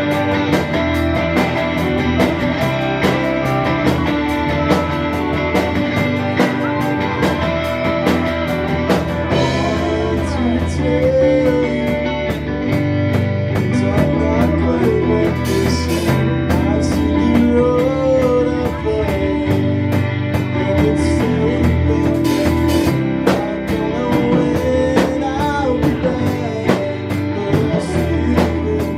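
Rock band playing: guitars over a steady drum-kit beat.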